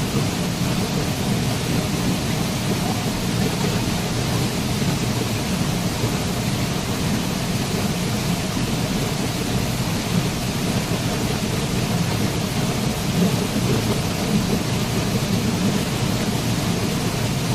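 A waterfall: water falling and rushing steadily, a continuous even noise that is heaviest in the low, rumbling range.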